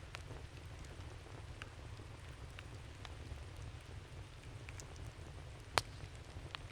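Wood campfire crackling: scattered small snaps and pops over a low steady rumble, with one sharper, louder pop near the end.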